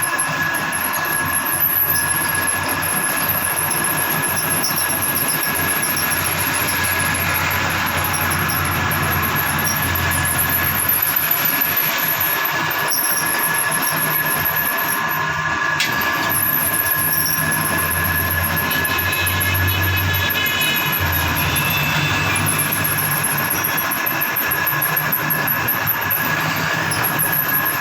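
A power tool or small electric motor running steadily, with a constant high whine over a grinding noise.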